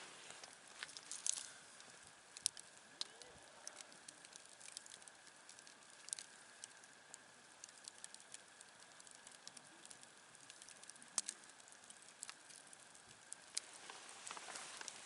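Campfire burning: irregular crackles and sharp pops of burning wood over a faint hiss, with a few louder snaps among them.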